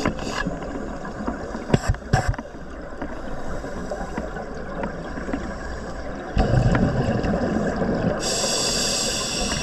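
Scuba diver breathing through a regulator underwater: a burst of exhaled bubbles about two-thirds of the way in, then the hiss of an inhale near the end. A couple of sharp clicks come around two seconds in.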